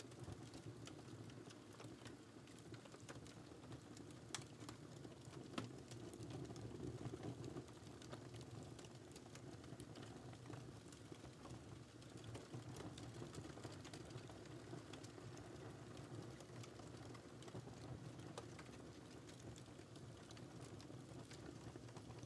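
Fireplace fire crackling faintly: a steady low rumble of burning with scattered small crackles and a couple of sharper pops about four and five and a half seconds in.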